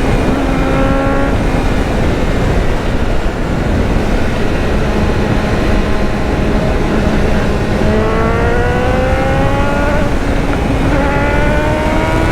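BMW S1000R's inline-four engine accelerating at speed, its pitch climbing near the start, holding steady through the middle, then rising again twice in the last few seconds, over steady wind noise.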